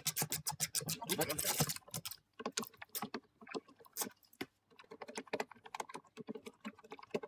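Hand tools at work on a van door: a fast, even run of ratchet clicks at the start, then scattered clicks and knocks of tools and door parts.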